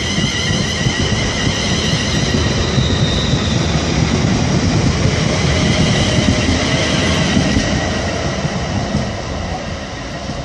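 Class 350 Desiro electric multiple unit pulling out of the station, a low rumble of wheels on rail with a steady high whine over it. It grows louder to about the middle, then eases off as the whine fades.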